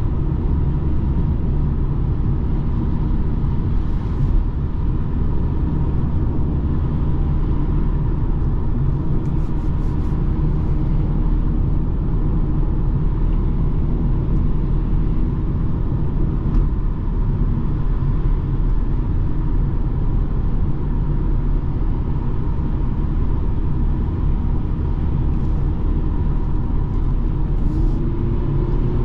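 BMW 220d xDrive's four-cylinder diesel and tyres giving a steady low driving rumble while cruising, with a short run of faint ticks about ten seconds in.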